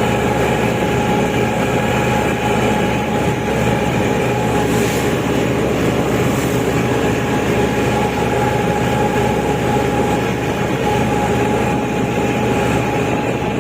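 Kubota L5018 tractor's diesel engine running steadily under work, with a steady whine over the engine noise.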